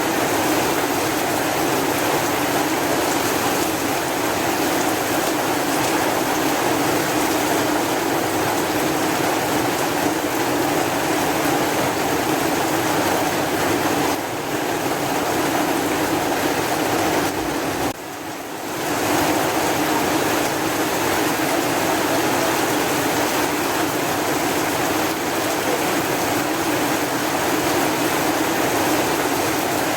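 Steady rain falling, an even hiss with no single drops standing out. The level dips briefly twice, most deeply about eighteen seconds in, and then comes straight back.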